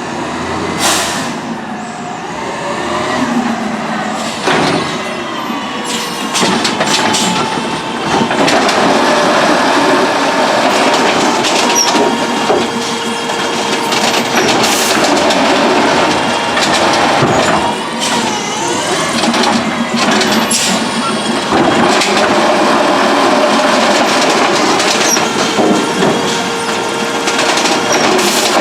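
Autocar ACX garbage truck with an Amrep automated side-loader arm working: a steady hydraulic whine under repeated metal clanks and bangs.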